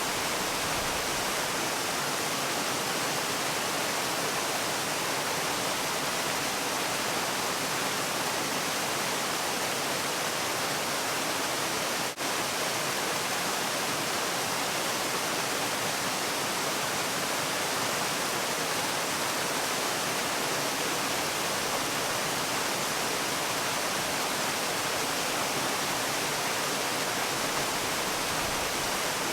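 Steady, even rush of a waterfall, with one brief dip in loudness about twelve seconds in.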